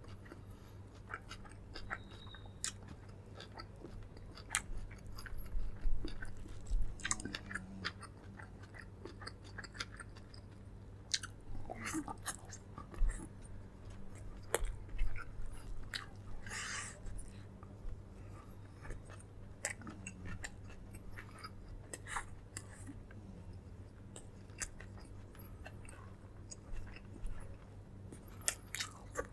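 Close-miked chewing and biting of a person eating, with scattered small clicks and crunches, over a steady low hum.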